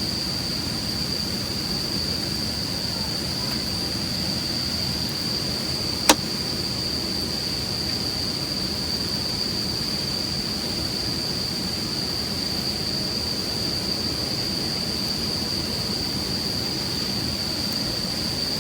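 Steady high-pitched chorus of autumn insects over a low even hiss, with one sharp pop about six seconds in.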